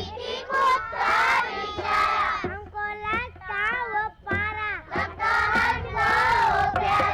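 A group of young children singing a rhyme together.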